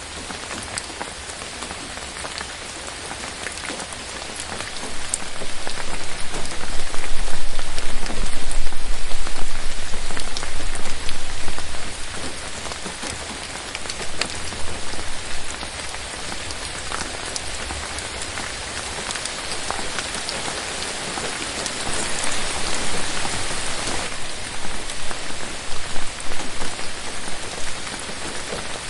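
Steady rain falling on forest leaves, with individual drops ticking close by. It grows heavier for several seconds from about five seconds in, with a low rumble underneath, then eases back.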